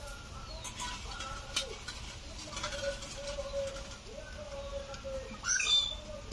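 Birds calling: a low, drawn-out cooing runs through, and a louder, high falling call sounds near the end, with a few light clicks.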